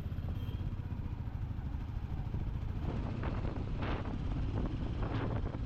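Royal Enfield Classic 350's single-cylinder engine running steadily under way, with gusts of wind hitting the microphone in the second half.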